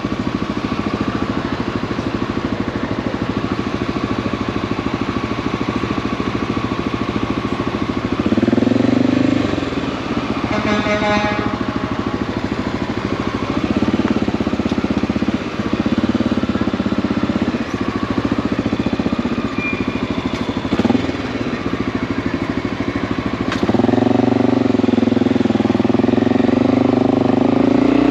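Motorcycle engine running under way, pulling up through the revs several times. A brief pitched tone comes in about ten seconds in.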